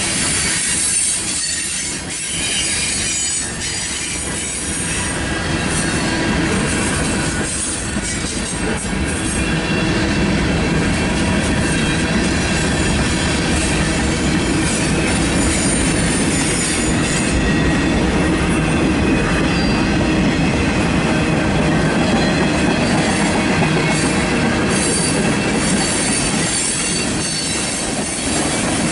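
Freight cars of a mixed manifest train rolling past on steel rails: a steady rumble of wheels on track, a little louder from about ten seconds in, with a thin high wheel squeal over it.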